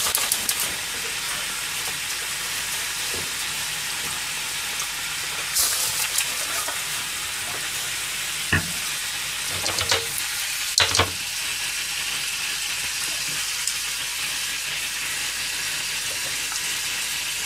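Bone-in chicken thighs sizzling steadily in oil in a frying pan over a gas flame. A few short knocks cut in over the middle of the stretch.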